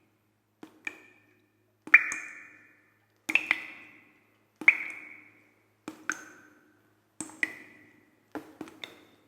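A series of sharp struck pings, each a quick double click followed by a short ringing tone that fades within about a second. There are about eight of them, spaced roughly a second and a quarter apart.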